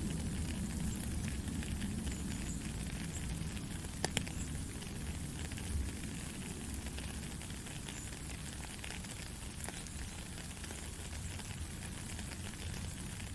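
Heavy rain falling steadily, with a low rumble underneath and a few sharp drip hits standing out, one about four seconds in.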